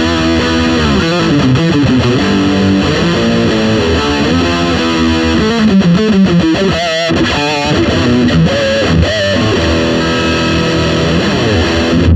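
Gibson Les Paul Custom electric guitar played through a distorted amp: a run of single notes and chords, with bent, wavering notes in the middle. The sound cuts off abruptly at the end.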